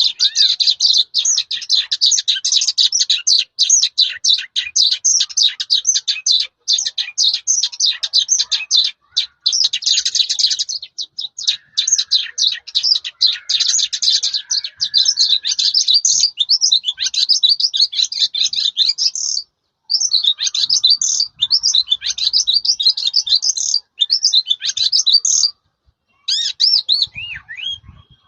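Caged lark singing a long, fast, varied song of rapid chirps, trills and sweeping whistles, with brief pauses about nine, nineteen and twenty-six seconds in.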